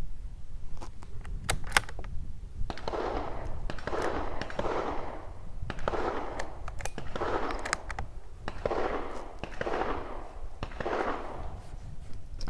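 Gunshots at a shooting range: a few sharp cracks in the first two seconds, the loudest just before two seconds in, then a string of duller bangs every half second to a second, over a steady low rumble.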